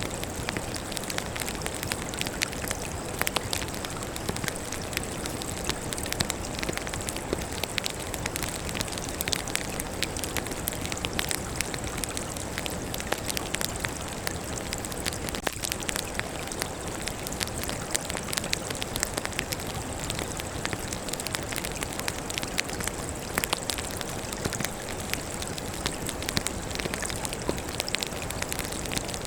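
Burning firewood crackling steadily, with many small sharp snaps and pops over a low rushing of flames.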